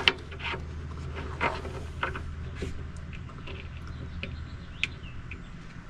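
A sharp click at the start, then scattered light clicks and taps of screws and shelf boards being handled, over a low steady hum.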